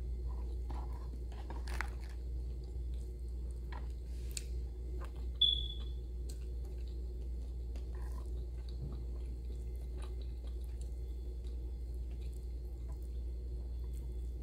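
A person eating: chewing and mouth smacks with scattered small clicks, over a steady low hum. A brief high squeak about five and a half seconds in is the loudest sound.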